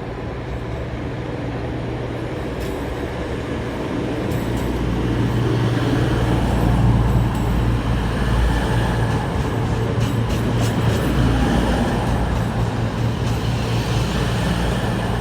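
Class 220 Voyager diesel-electric multiple unit arriving, its underfloor diesel engines running with a steady low hum that grows louder over the first several seconds. A few light clicks come from the wheels and track.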